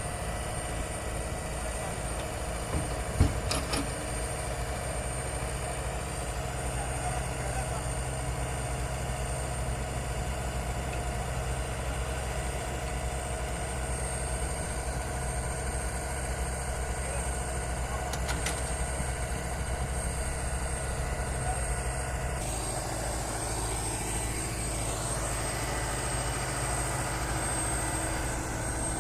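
Heavy diesel earth-moving machinery running steadily, with a sharp metallic knock a few seconds in; the engine note shifts about three quarters of the way through.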